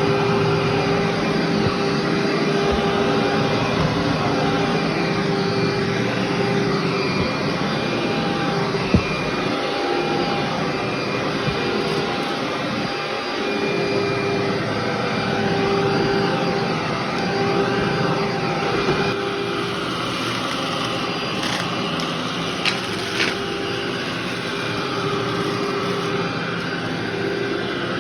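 Vacuum cleaner running steadily over a long-unvacuumed carpet, its motor hum wavering as it is pushed back and forth, with occasional sharp crackles of debris being sucked up.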